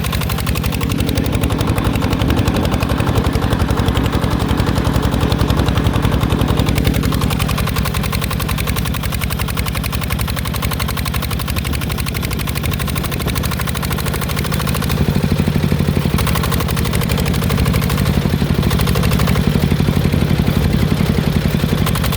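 Mecatech 14 hp tractor's engine running steadily with a fast, even firing pulse. It eases off about seven seconds in and picks up again around fifteen seconds.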